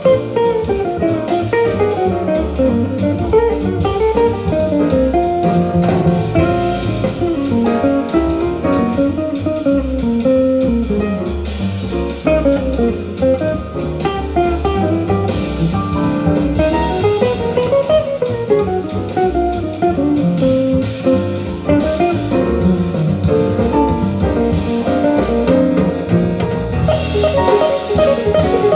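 Jazz recording played back over hi-fi loudspeakers in a listening room: a guitar plays a running melodic line over a drum kit.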